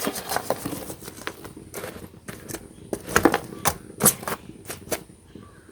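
Live embers being put onto the lid of a sealed dum biryani pot: irregular clinks and clatters as pieces land and are pushed about, the loudest knocks a little past three and four seconds in.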